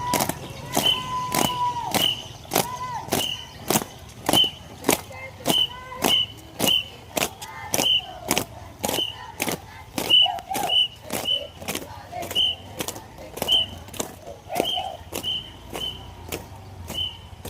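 Marching group's steady beat: sharp percussive hits about twice a second, each with a short high chirp. Shouted voices are heard now and then, and a held tone runs in the first few seconds.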